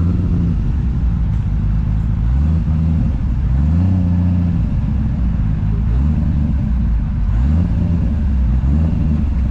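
A car engine revving repeatedly, its note climbing and dropping back several times in a row, one rise every second or two.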